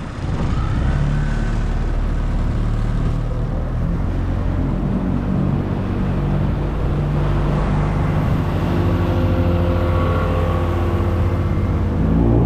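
Brand-new Yamaha 20 hp tiller-handle four-stroke outboard running under way, in its break-in hours. It speeds up about half a second in and picks up again near the end.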